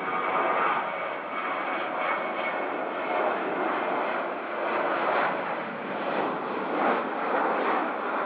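Airliner engines passing close by: a loud, steady rushing noise that swells and eases, with a faint whine in the first couple of seconds that fades out.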